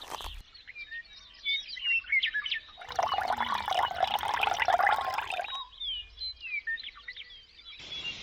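Small birds chirping repeatedly in short, quick calls. From about three seconds in, for two and a half seconds, a rushing noise like liquid being poured.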